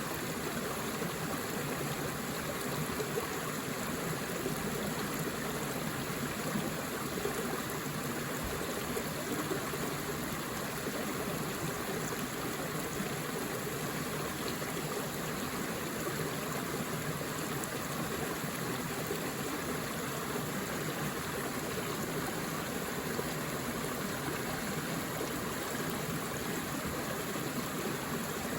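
Forest stream flowing steadily, a constant rush and babble of water.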